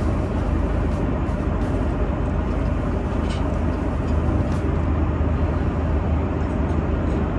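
Steady cabin noise of a jet airliner in flight: a constant low rumble of engines and airflow, with a couple of faint light ticks in the middle.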